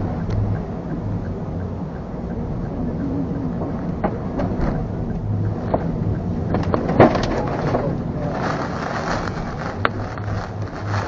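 Wind and rain beating on a car during a storm, heard from inside the car over the low running noise of the vehicle, with sharp hits against the body now and then.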